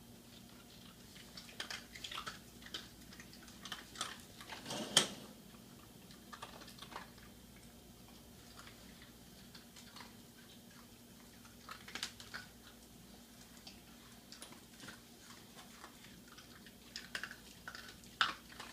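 Scattered light clicks and taps, a few at a time with pauses between, and one louder knock about five seconds in.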